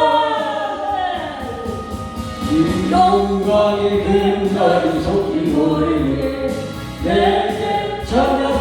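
Vocal quartet singing a gospel praise song in harmony, with long held notes; one phrase tails off and a new chord comes in about two and a half seconds in.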